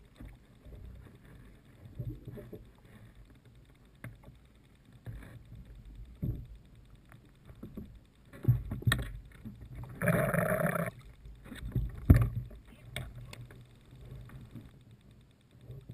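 Water sloshing around a kayak, with irregular knocks and bumps against the hull and a louder burst of splashing about ten seconds in.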